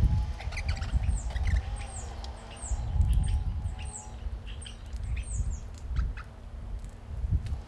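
Wild birds calling: a run of short, high chirps, each falling in pitch, repeated many times, over a low rumble and scattered clicks.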